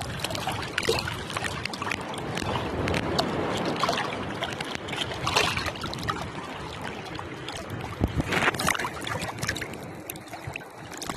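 Seawater splashing and sloshing in irregular bursts, over a steady rush of wind and waves.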